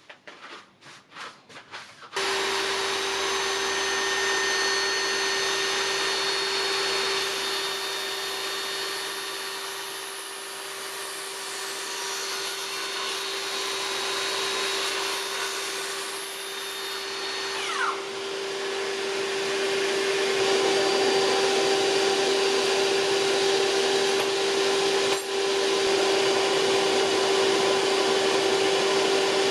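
A few light clicks, then an electric power tool motor switches on about two seconds in and runs steadily with a constant hum, its loudness dipping and swelling slightly along the way.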